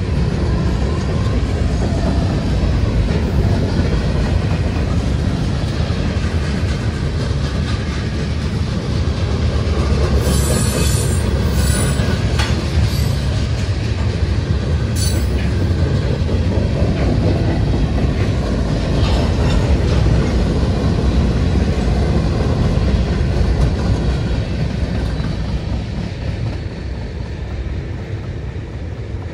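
Freight train of covered hopper cars rolling past over the rails, a steady heavy rumble of wheels on track, with brief high-pitched wheel squeals about ten and fifteen seconds in. The rumble fades near the end as the last cars clear.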